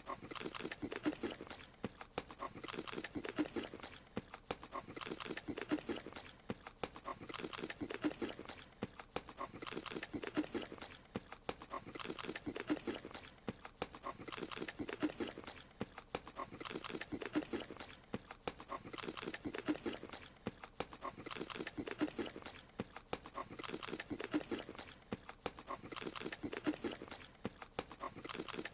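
Looped cartoon eating sound: wet chewing and chomping with a short animal-like vocal note. The same clip repeats a little more than every two seconds.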